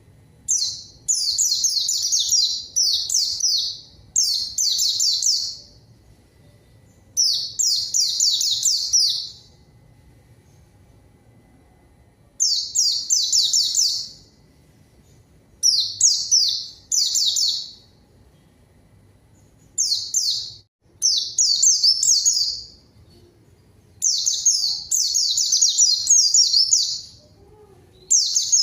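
White-eye (pleci) singing in full voice: quick, high twittering phrases of one to three seconds, about ten bouts, with short pauses between them.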